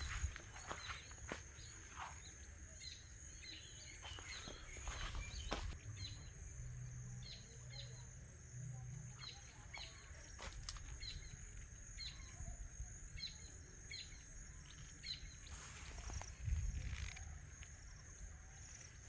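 Outdoor ambience: a bird chirping over and over in short high calls, over a steady high-pitched hum, with scattered knocks and a few dull thuds.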